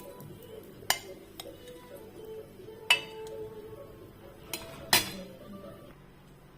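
Cooking utensils clinking against a frying pan and plate as fried aloo tikkis are lifted out: three sharp clinks about two seconds apart, with a few lighter taps between.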